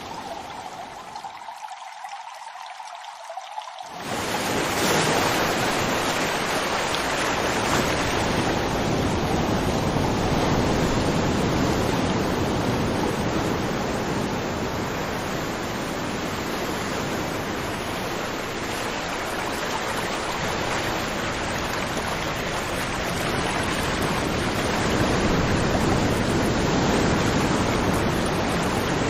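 River water rushing and flowing steadily. For the first few seconds it is quieter and thinner, then about four seconds in it turns abruptly louder and fuller, as one recording gives way to another.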